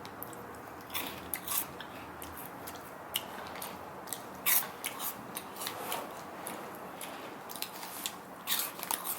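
Close-up chewing of a crunchy, noodle-shaped savory snack: irregular crisp crunches, loudest about halfway through and again near the end.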